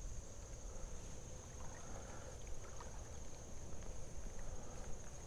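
Creek water moving, a low steady rush with a few faint clicks, under a steady high-pitched hum.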